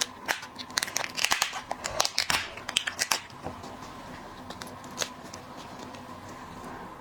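Lobster shell being cracked and peeled by hand: a quick run of sharp cracks and crackles over the first three seconds, then a few single clicks.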